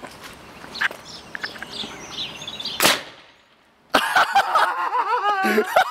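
Aerosol-fuelled combustion potato cannon firing: a single sharp bang about three seconds in, fading quickly. About a second later, loud laughter and shouting break out.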